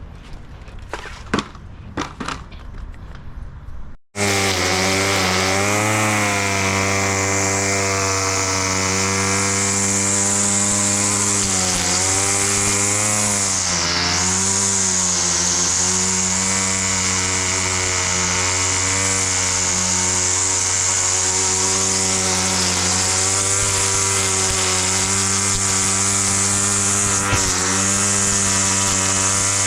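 Small petrol engine of a grass-cutting machine running steadily at high speed, starting abruptly about four seconds in after a few faint clicks; its pitch dips briefly twice.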